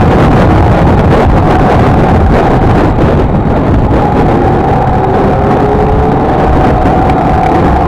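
Honda XLR125R's single-cylinder engine running while the bike is ridden, under heavy wind noise on the microphone. A fainter tone rises gently about halfway through.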